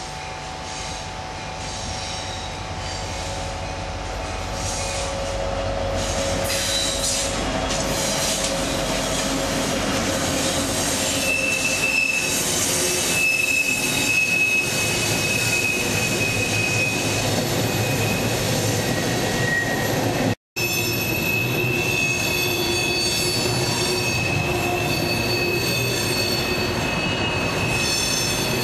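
Freight train rolling past, growing louder over the first few seconds, with the cars' steel wheels squealing in high steady tones from about the middle on. The sound cuts out for an instant about two-thirds through.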